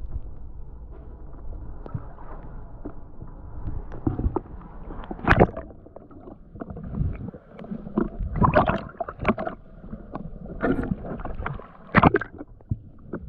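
Muffled water sounds from a diver moving in a river, with several sudden splashes about five, eight to nine, eleven and twelve seconds in.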